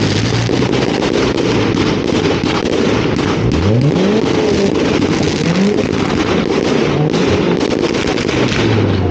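Fireworks barrage: rapid, continuous launches and bursts of comets and shells, crackling without a break, with a short rising whistle about three and a half seconds in and another near six seconds.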